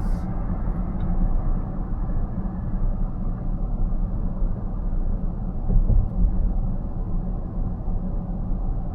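Steady road and tyre noise of a car driving at highway speed, heard inside the cabin, with a couple of louder bumps about six seconds in.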